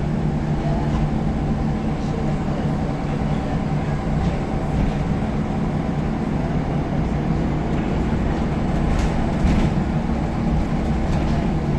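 Scania L94UB single-deck bus's diesel engine running at a steady note under a constant rumble, with a few faint rattles about nine seconds in.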